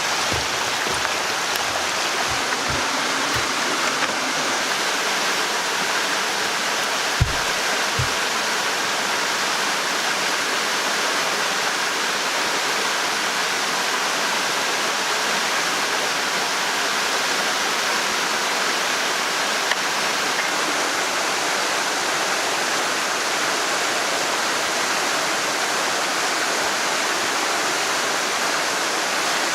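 Steady rushing water, like a stream or small waterfall, with a few dull low thumps in the first few seconds and two more about seven seconds in.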